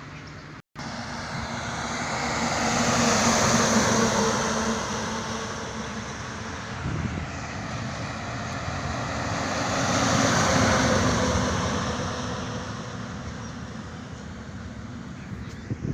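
Two heavy vehicles pass by on a highway one after the other, each swelling up and fading away with tyre and engine noise. The sound cuts out briefly just under a second in.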